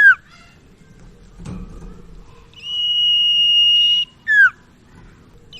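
Common iora (sirtu/cipoh) song: a long, steady high whistle held for about a second and a half, then a short falling note, repeated. The falling end of one phrase comes at the start, and a whole whistle-and-drop phrase follows midway. There is a faint thud about a second and a half in.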